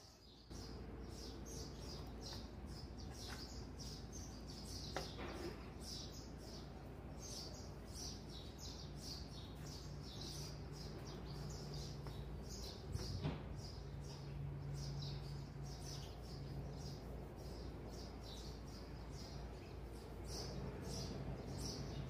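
Small birds chirping, a constant stream of quick high chirps, over a faint steady low hum.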